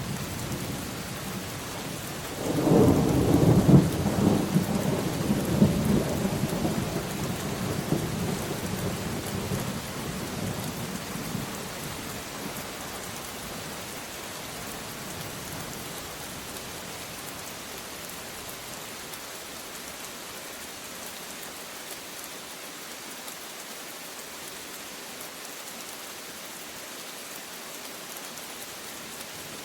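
Steady rain falling, with a clap of thunder breaking about two and a half seconds in and rumbling away over the next ten seconds or so, leaving only the rain.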